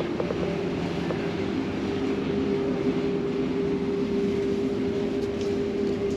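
Steady drone of a ferry's engines and machinery heard inside the passenger deck, with a constant hum and a low rumble.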